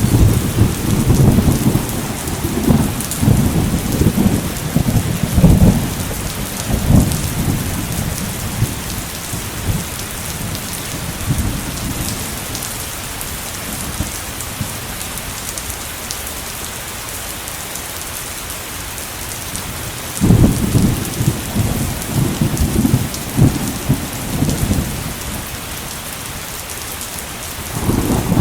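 Steady heavy rain hissing throughout, with thunder rumbling in two long rolls, one at the start lasting several seconds and another about two-thirds of the way through, and a third beginning near the end.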